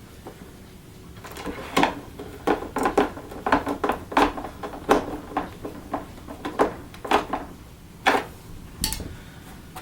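Irregular clicks and knocks of hard plastic vacuum-cleaner housing parts and a screwdriver being handled during reassembly, starting about a second in at roughly two knocks a second.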